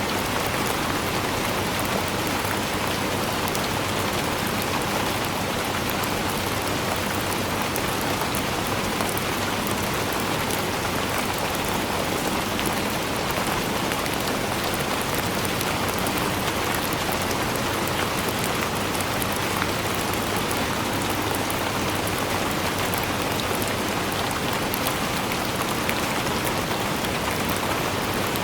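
Steady rainfall, a dense, even patter of drops on surfaces with fine individual drop ticks throughout.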